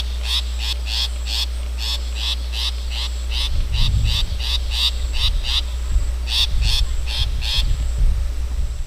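Long-tailed shrike calling a run of short, harsh notes, about three a second, pausing briefly past the middle and stopping near the end. Wind rumbles on the microphone in the second half.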